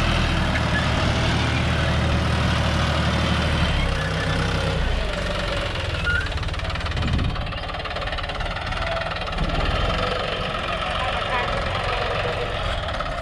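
Tractor's diesel engine running, its steady low tone dropping and easing off about four to five seconds in.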